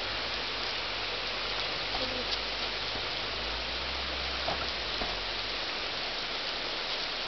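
Steady hard rain falling, an even hiss of drops that does not let up.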